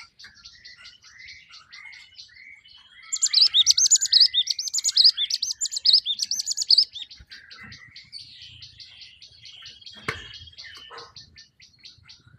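Java sparrows chirping in a busy mix of short high notes, with a loud, fast run of repeated notes from about three to seven seconds in. A single sharp knock comes near ten seconds.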